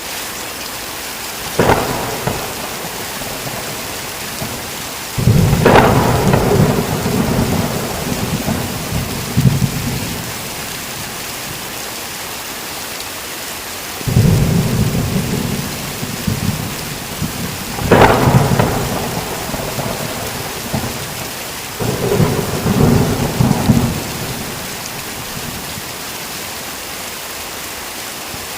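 Steady heavy rain with repeated thunder. Sharp cracks and low rolling rumbles of a few seconds each come about five times, the loudest about eighteen seconds in.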